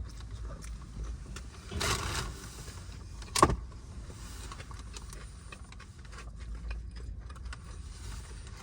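Small eating and food-handling noises inside a car cabin: a short rustle about two seconds in and a sharp click about a second and a half later, over scattered faint clicks.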